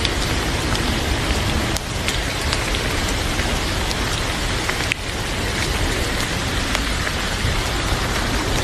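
Heavy rain falling steadily, with scattered light sharp ticks over the rush.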